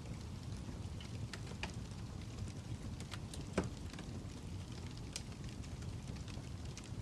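Wood fire crackling: a steady low rumble with scattered sharp pops and snaps, the loudest about three and a half seconds in.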